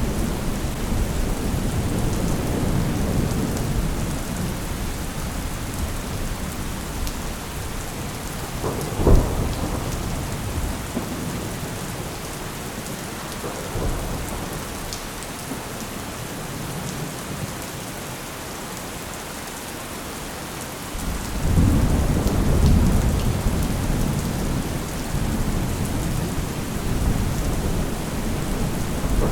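Thunderstorm: steady rain with rolling thunder. A sharp thunderclap about nine seconds in, and a long low rumble swelling up about two-thirds of the way through.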